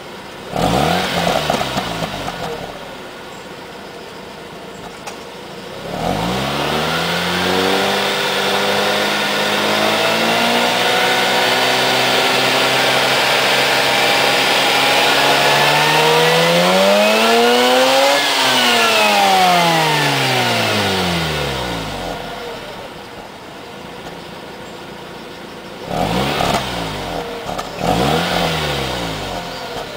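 Mazda RX-8's two-rotor rotary engine heard through its stock catalytic converter and stock muffler. A quick blip, then idle, then a slow, steady rev rising in pitch for about twelve seconds up to around 9,000 rpm and falling back to idle, with two more short blips near the end.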